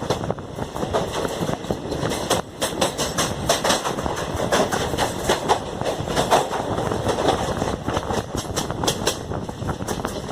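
Passenger train running on the track, a steady rumble with rapid, irregular clatter of wheels over the rails.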